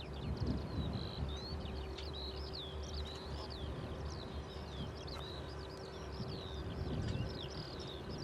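A small songbird singing a fast, unbroken run of short high chirps and trills, over a low steady rumble and a faint steady hum.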